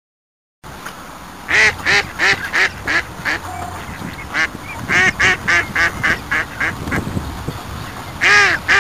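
Mallard ducks quacking in quick runs of short calls, then a louder pair near the end, over a steady background hiss.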